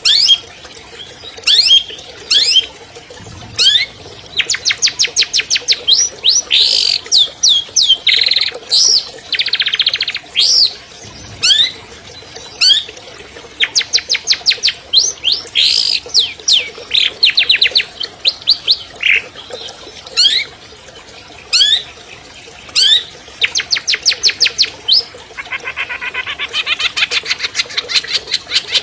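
Long-tailed shrike (cendet) singing a long, varied song. Single sharp whistled notes sweeping up or down alternate with rapid trills of evenly spaced, quickly repeated notes. This is the shrike's 'full isian' song, filled with imitated calls.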